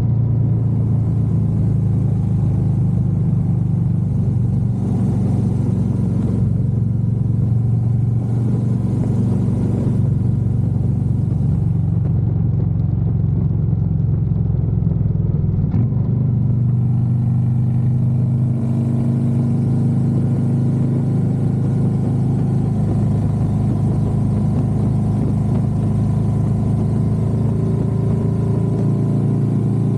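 Harley-Davidson Road Glide's V-twin engine running steadily under way, its low note shifting slightly in pitch, with a brief click about halfway through after which the note changes.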